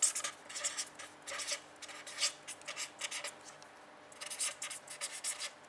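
Writing: a pen or marker scratching across a surface in short, irregular strokes with brief pauses between them.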